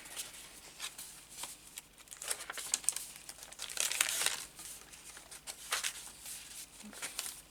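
Paper rustling and crinkling as pages and a paper pocket are handled and moved about, in irregular short crackles.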